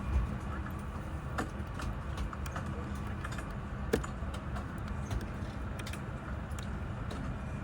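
Steady low hum of a parked Airbus A350-900's cabin at the gate, with a few light clicks and one sharper click about four seconds in from handling the seat's fittings.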